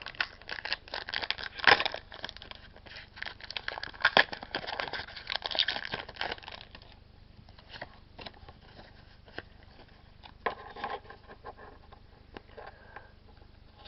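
Foil Pokémon booster pack being torn open and crinkled, a dense run of crackling for about the first seven seconds, then fainter, scattered crinkles and rustles as the cards are drawn out.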